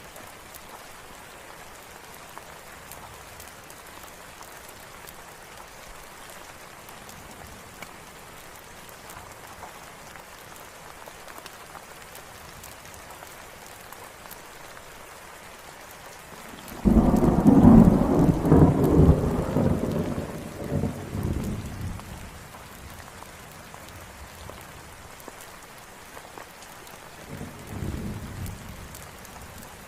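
Steady rain falling. About two-thirds of the way through, a sudden loud thunderclap rumbles away over about five seconds, and a softer roll of thunder follows near the end.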